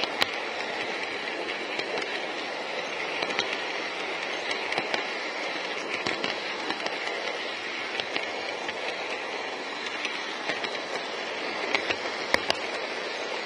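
N-gauge model E5 series Shinkansen train running along layout track: a steady whirring rush of motor and wheels with scattered small clicks as the wheels pass rail joints.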